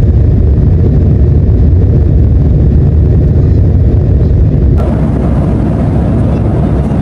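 Steady, loud low rumble of jet airliner cabin noise. About five seconds in it changes abruptly to a thinner, hissier rush with less bass.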